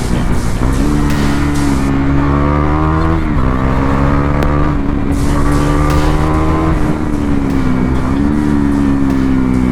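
KTM Duke 390's single-cylinder engine running hard at high, fairly steady revs while riding, its pitch dipping briefly twice, about three and a half and seven seconds in.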